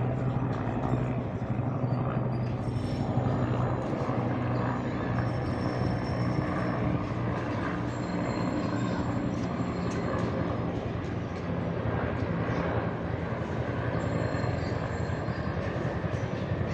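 Two Bell 412 helicopters flying by together: a steady drone of rotors and engines with a fast, even rotor beat.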